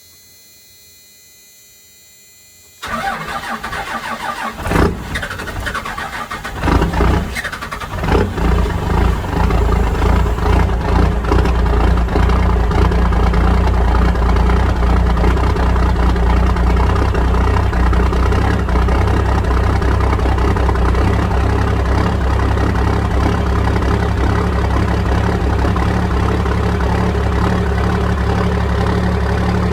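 Cummins 12-valve inline-six diesel cold-started at 17°F. About three seconds in it cranks and stumbles unevenly, catching and settling by about eight seconds in to a steady idle through dual exhaust stacks.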